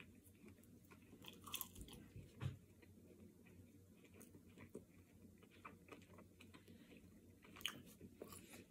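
A person chewing a bite of crispy-coated air-fried chicken drumstick, quiet chewing with scattered crunches, the louder ones about one and a half and two and a half seconds in and again near the end.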